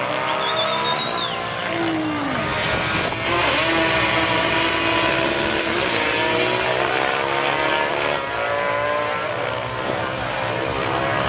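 Racing engines at a drag strip revving and accelerating, several engine notes rising and falling in pitch at once, with a loud hiss of noise joining in about two seconds in.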